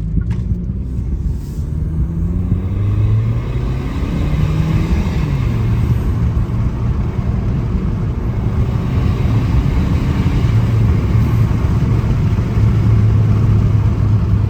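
Kia K5 GT-Line's 1.6-litre turbocharged four-cylinder engine running under way, with the intake and turbo sound of a custom 3-inch aluminium inlet pipe, heard through open windows over road noise. Its pitch rises over the first few seconds, then holds steady.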